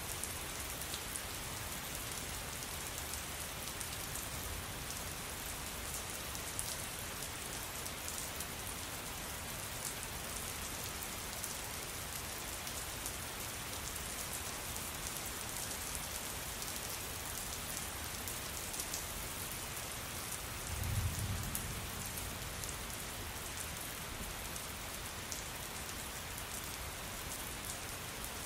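Steady rain falling, an even hiss with scattered drop ticks. About three-quarters of the way through, a brief low rumble swells up over it for a second or so.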